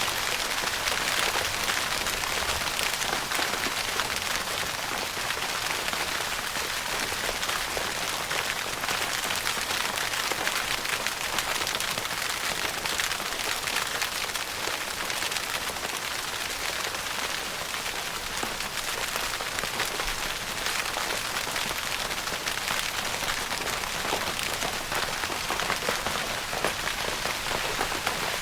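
Steady rain falling on a tent's fabric, a dense patter of many small drop ticks.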